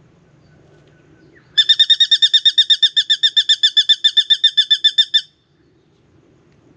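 Spangled drongo calling: a fast run of about two dozen identical ringing notes, roughly seven a second, lasting about three and a half seconds and stopping abruptly.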